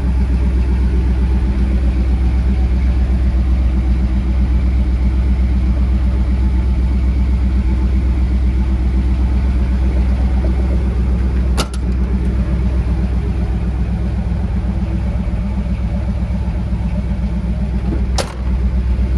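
The 1978 Ford F-250's 460 big-block V8 idling steadily, a deep even rumble. Two brief clicks with short dropouts come about 12 and 18 seconds in.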